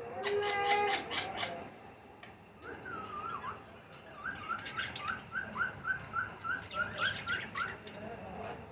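Baby rose-ringed (ringneck) parakeets begging for food: a harsh pulsed call at the start, then a bending call, then a quick run of short rising chirps, about three a second.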